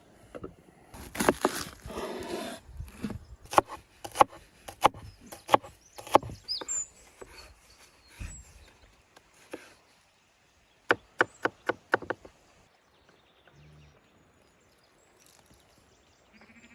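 Knife or cleaver chopping on a wooden cutting board. A scrape comes about a second in, then a run of sharp chops about two-thirds of a second apart, and a quick burst of four chops about eleven seconds in.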